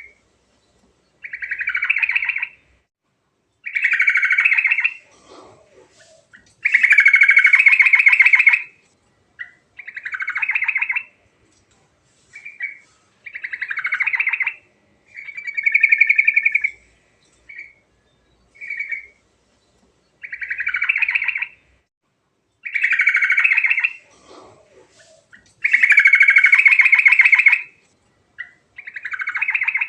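Trucuk (yellow-vented bulbul) singing a continuous run of loud, bubbly song phrases, each one to two seconds long with short pauses between them. Some phrases are longer and trilled.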